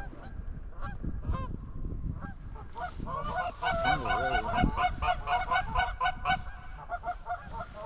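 Canada-goose-style honking: a few scattered honks at first, then from about three seconds in many short honks overlapping thickly.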